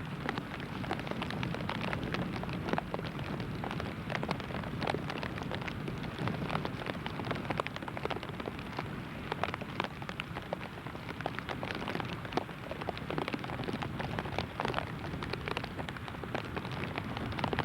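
Heavy rain pelting down, a steady hiss full of sharp drop impacts on a surface.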